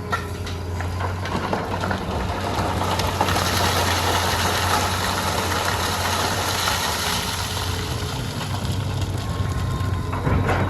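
Hitachi EX200 excavator's diesel engine running steadily at work, with a click or clank at the start and a louder rushing, scraping noise through the middle seconds.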